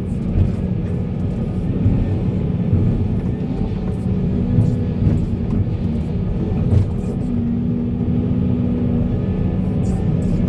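Heavy machinery's diesel engine running steadily with a deep rumble, with occasional short knocks over it.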